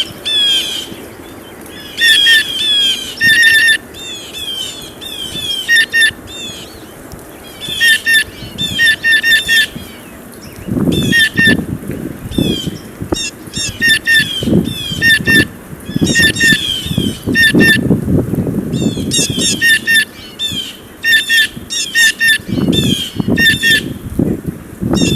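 Blue jays giving harsh, repeated jay calls in quick runs of several calls every second or two. From about ten seconds in, a low, uneven rumbling noise comes and goes beneath them.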